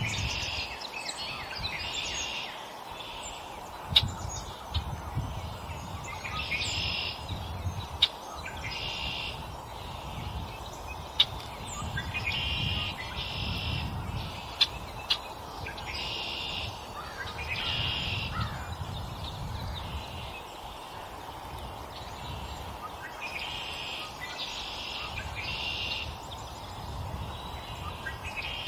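Wild songbirds at a feeder chirping and calling over and over, in clusters of short calls, with a few sharp clicks among them.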